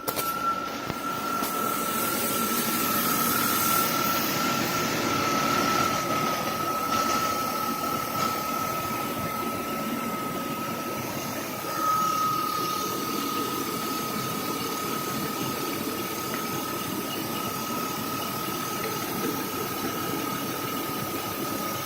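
BMW M52B28 2.8-litre straight-six engine running at a steady idle, with a constant high whine over the engine noise and a slight swell in level about twelve seconds in.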